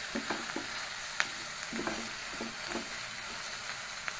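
Onion, ginger and garlic paste sizzling in hot oil in a frying pan, stirred with a wooden spatula that scrapes the pan in short strokes, with one sharp tap about a second in.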